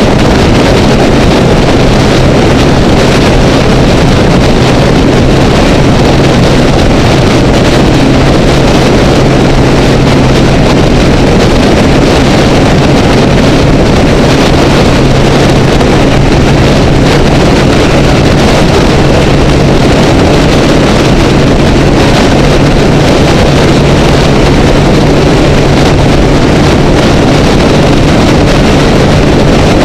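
Honda Rebel motorcycle engine droning steadily at freeway speed, its pitch stepping up slightly about halfway through, under heavy wind rush on a camera in a waterproof housing.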